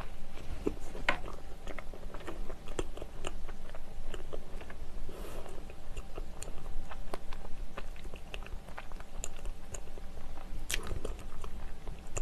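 A person chewing a mouthful of soft brioche filled with cream cheese, cream and blueberries and topped with strawberries, heard close up. There are many short mouth clicks and smacks, with a louder one near the end.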